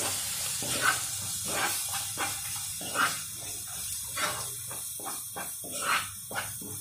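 Grated dry coconut sautéing in hot oil in a kadhai: a steady sizzle with a spatula scraping and knocking against the pan at irregular intervals.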